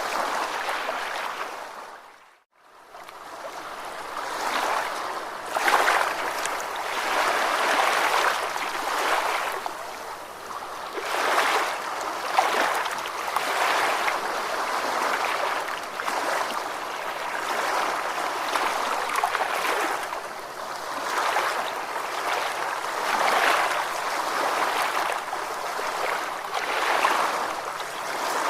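Ocean waves washing in: a continuous rush of surf that swells and eases every second or two. About two seconds in the sound fades briefly to near silence and comes back.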